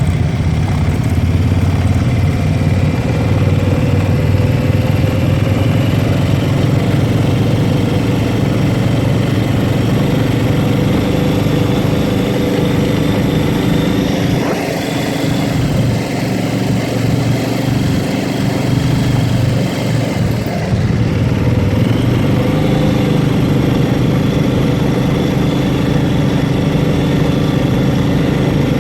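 ATV engine running steadily while riding. It eases off for a few seconds past the middle, then picks up again.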